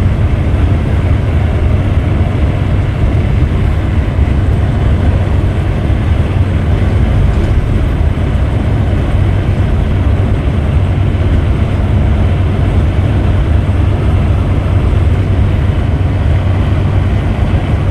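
Steady low rumble of a Scania Metrolink multi-axle coach on the move, engine and road noise running evenly without change.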